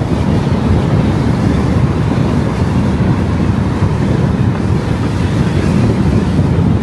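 Car driving at speed: steady road and wind noise with a heavy low rumble and wind buffeting the microphone.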